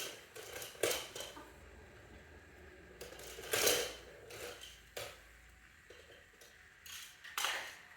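Small hard objects clattering and clinking, about seven separate knocks, the loudest a longer clatter about three and a half seconds in.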